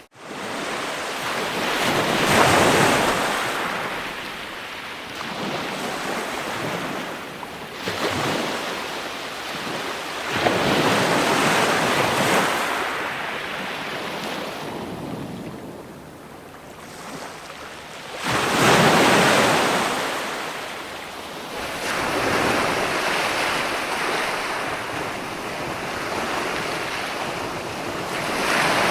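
Ocean surf: waves breaking and washing in, swelling and ebbing every several seconds, with the biggest swells a couple of seconds in and again just past the middle. The sound cuts out for an instant at the very start.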